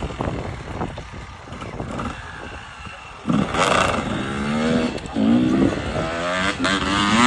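Off-road motorcycle engine easing off after loud running, then revved in several short rising and falling throttle bursts from about three seconds in.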